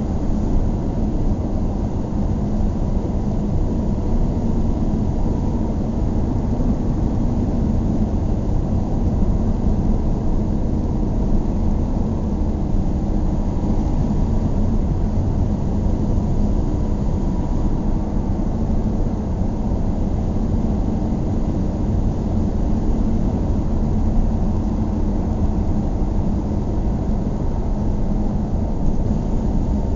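A car driving steadily: an even low rumble of engine and road noise.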